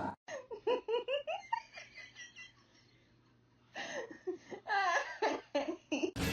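A person laughing in quick repeated bursts: two bouts with a short pause between them.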